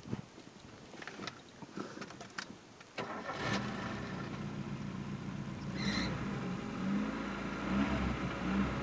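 Car engine cranked and started about three seconds in after a few faint clicks, then idling steadily; its alternator drive belt, freshly rubbed with rosin, gives a short squeal shortly after start-up and then runs without squealing.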